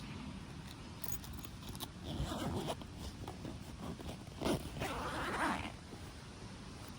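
A zipper being pulled, a few rasping strokes in the middle, the last one the longest.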